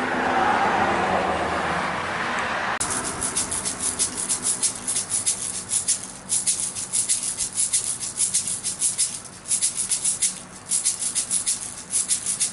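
Baby's toy rattle shaken hard and fast, starting about three seconds in, in quick bursts of sharp rattling with brief pauses between. Before it starts, a rushing noise fills the first few seconds.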